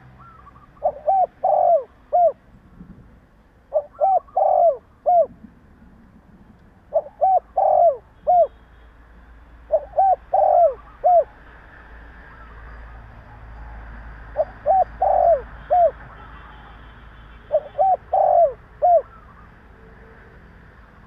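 Spotted dove (Streptopelia chinensis) male cooing: six phrases of three or four arching coo notes, each phrase about a second and a half long and repeated every three seconds or so, with a longer pause midway.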